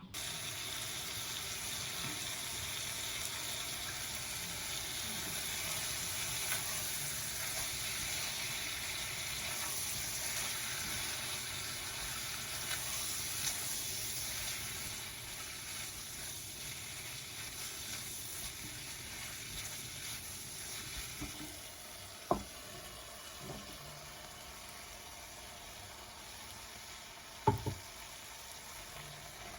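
Food sizzling in a frying pan, a steady sizzle that eases off in the second half, with two sharp clicks of a utensil against the pan.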